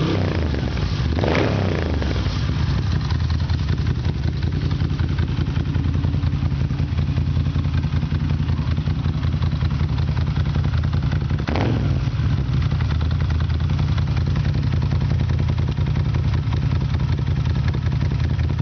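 Moto Guzzi V7 III's air-cooled transverse V-twin idling through an Agostini Mandello exhaust with the dB killer removed, a deep, steady, uneven exhaust note. Brief blips of the throttle come near the start and again about two-thirds of the way through.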